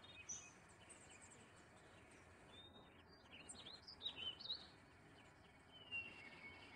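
Faint birds chirping: scattered short chirps and little whistles, with one falling whistle near the end, over a low background hiss.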